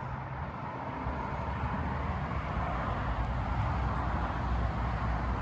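Steady road traffic noise: a continuous rumble with a hiss of passing tyres.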